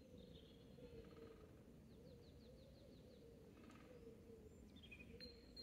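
Faint birdsong: scattered high chirps, with a quick run of about seven notes a little over two seconds in, over a faint steady low hum.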